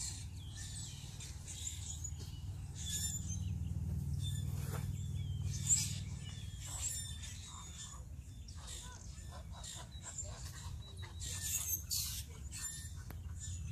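Birds chirping and calling, many short high notes scattered throughout, over a steady low rumble.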